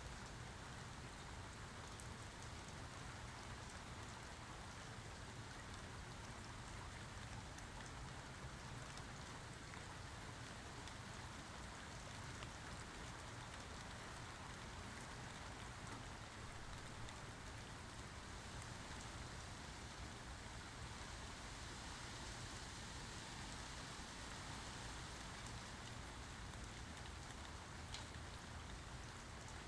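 Steady rain falling, an even hiss with a few sharper drop ticks standing out, one near the end.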